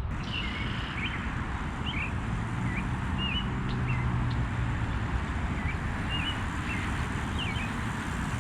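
Small birds chirping, short calls every half second to a second, over a steady low rumble.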